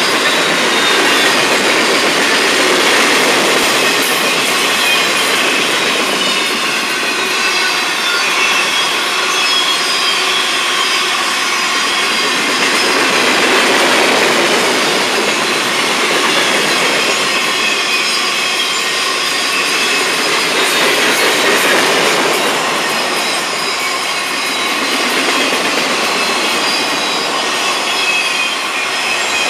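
Freight cars of a long Florida East Coast Railway train rolling past at close range: a steady loud rumble and rattle of steel wheels on the rails, with faint high wheel squeal wavering over it.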